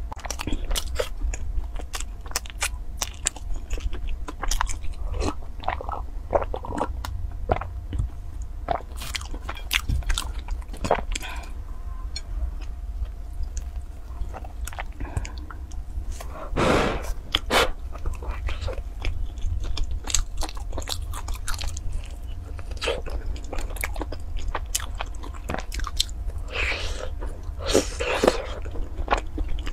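Close-miked biting and chewing of a sweet bread bun with a pink crusted top, with many small crunches and crackles throughout. There are louder bursts a little past halfway and again near the end, over a low steady hum.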